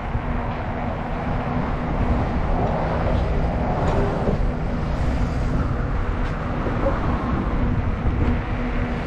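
Steady wind rumble and road noise from riding a bicycle, with a motor vehicle going by, swelling about three seconds in.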